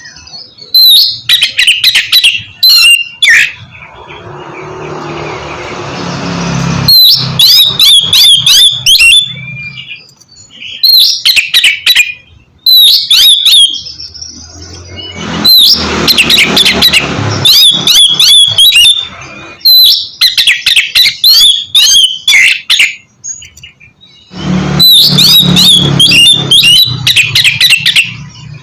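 Oriental magpie-robin (kacer) singing in loud, fast bursts of whistled and harsh phrases, broken by short pauses. A rising hiss swells for a few seconds near the start.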